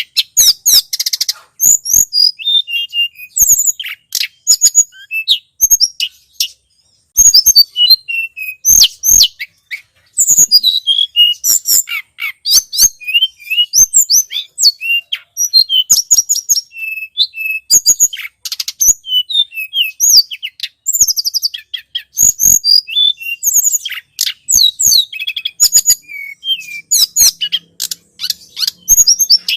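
Tledekan gunung song played as a bird-trapping lure: loud, rapid, high chirps and short sweeping notes, nearly continuous with a couple of brief pauses.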